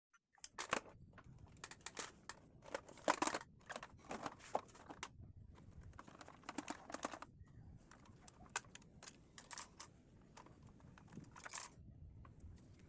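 Hands handling the plastic body of a Roomba robot vacuum: irregular clicks, taps and short rustles, some in quick runs.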